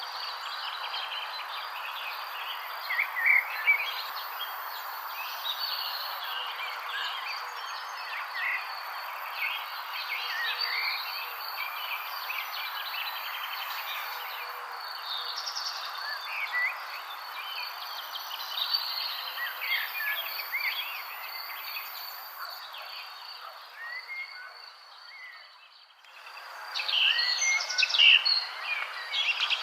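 Morning nature ambience: many small birds chirping over a steady high insect trill and a constant background hiss. The sound dips almost away shortly before the end, then returns with busier chirping.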